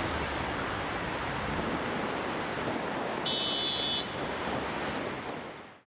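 Passenger train coaches rolling past, a steady rush of wheels on rails with a brief high-pitched squeal a little after three seconds in. The noise fades and cuts off just before the end.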